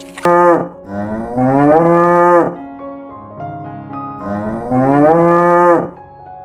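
Cow mooing: one short moo, then two long moos that rise in pitch.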